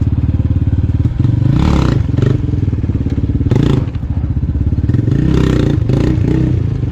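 A 250 dirt bike engine running: a steady pulsing for about a second, then revved in several throttle surges as the rider holds wheelies.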